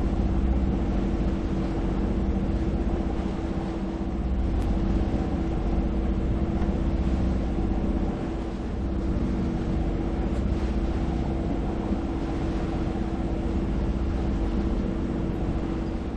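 A sailboat's engine running steadily under way, a constant hum over a low rumble.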